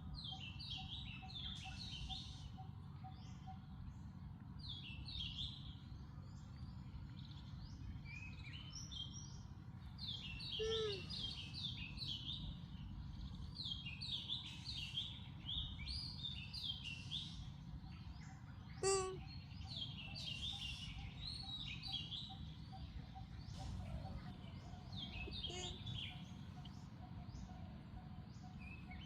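Small birds chirping over and over, with two louder brief squeaks about 11 and 19 seconds in, over a low steady background noise.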